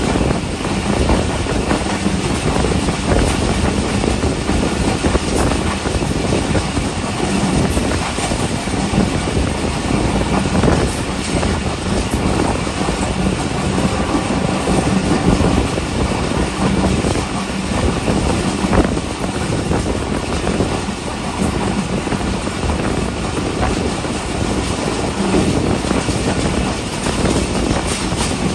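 Passenger train coach running along the track: a steady, dense rumble of wheels on rails, heard through an open window at the coach's side.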